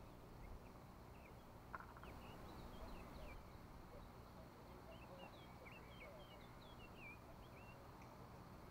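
Faint songbirds chirping: a run of quick short whistled notes over a quiet lakeside background, with a single sharp click a little under two seconds in.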